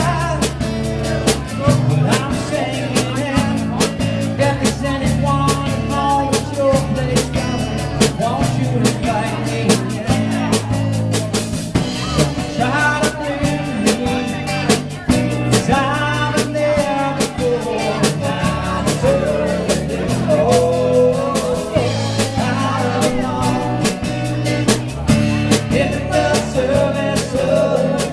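Live rock band playing at full volume: drum kit keeping a steady beat under bass and guitars.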